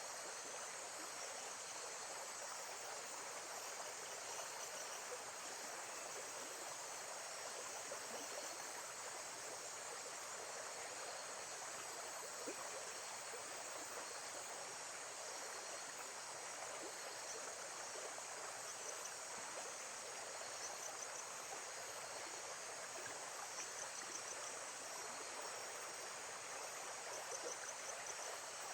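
Steady, gently running water in a nature soundscape, with a continuous high chirring of insects over it.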